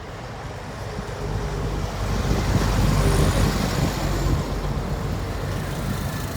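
A truck driving past on the road. Its engine rumble and road noise build to a peak about three seconds in, then ease off.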